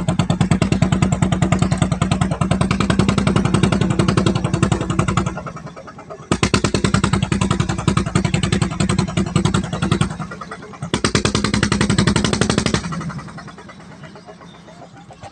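Wooden klotok river boat's single-cylinder diesel engine chugging hard under load, with a fast, even beat as it moves a broken-down steel boat. It eases off about five seconds in, opens up again twice, and then drops back to a quieter, slower run for the last couple of seconds.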